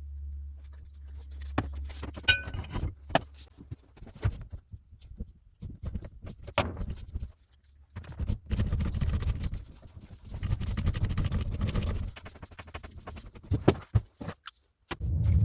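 Metal clinks and knocks from tools and parts while a rusty hand-cranked pillar drill is dismantled, with two stretches of rough rumbling handling noise in the second half.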